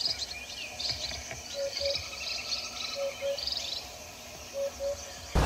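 Birds chirping and calling outdoors. There are many short, high chirps, and a lower call of two quick notes repeated three times, about a second and a half apart.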